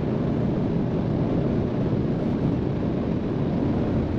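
Steady road and engine noise inside a moving car's cabin at motorway speed, a low even rumble without breaks.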